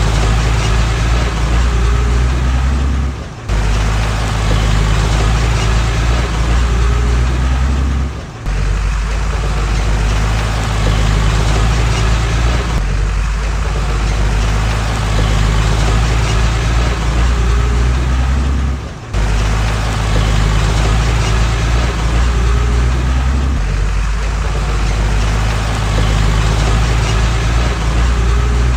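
Heavy diesel earthmoving machinery engine running steadily, with brief sudden dropouts about three, eight and nineteen seconds in.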